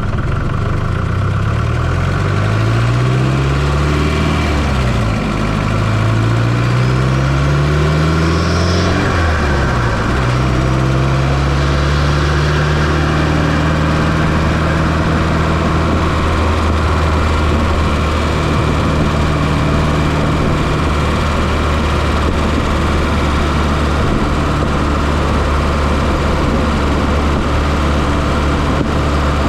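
1995 Fiat Coupé 2.0 16V turbo four-cylinder engine, heard close up from inside the engine bay. It revs up and down several times over the first ten seconds or so, then runs at a steady speed.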